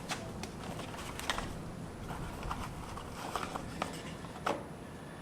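Scattered light clicks and taps of small hard parts being handled, over a steady low hum; the clearest tap comes about four and a half seconds in.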